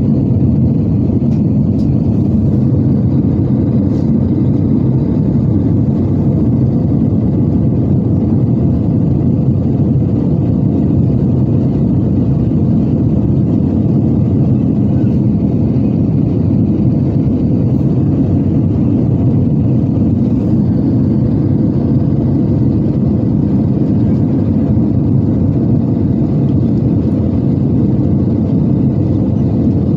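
Steady rumble of engine and airflow noise heard inside the cabin of an Airbus A320-214 with CFM56 engines, even in level throughout.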